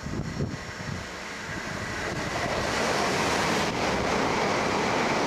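Electric multiple-unit passenger train passing through the station at speed: a rush of wheel and air noise that swells over the first few seconds and stays loud as the carriages go by, with a faint steady high whine running through it.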